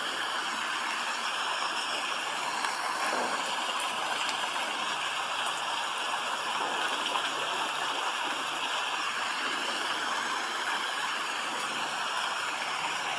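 Steady rain falling: a continuous, even hiss with no breaks.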